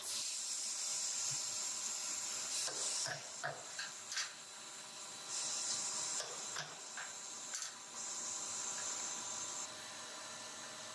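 Factory machinery running with a steady hiss and scattered short clicks and knocks. The hiss grows brighter about halfway through and drops back near the end.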